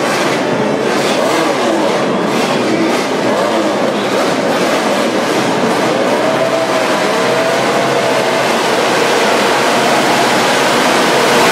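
Many MotoGP racing motorcycle engines revving together, their pitches rising and falling over one another in a dense, loud din that grows slightly louder near the end.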